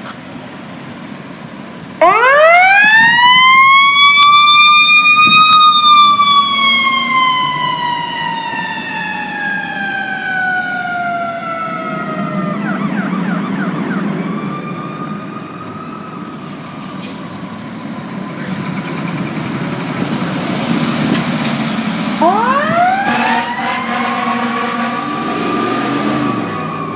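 Fire engine's mechanical siren winding up sharply about two seconds in, then slowly dying away, and winding up again near the end, over a truck engine's low rumble.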